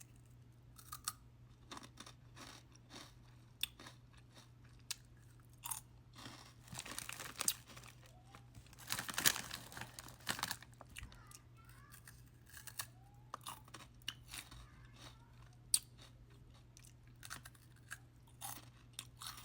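A person biting and chewing Cheetos close to the microphone: irregular crisp crunches, thickest in a run about seven to ten seconds in, over a faint steady hum.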